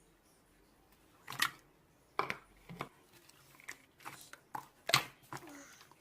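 A string of sharp, irregular clicks and taps, about half a dozen, starting about a second in, the loudest near the end.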